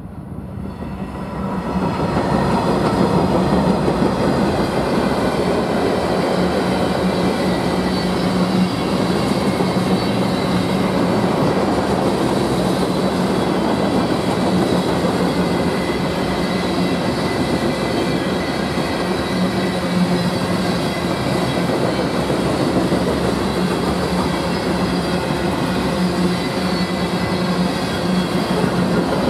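Freight train rolling past close by: the noise builds quickly over the first two seconds, then holds as a steady, loud sound of covered hopper cars' steel wheels running on the rails.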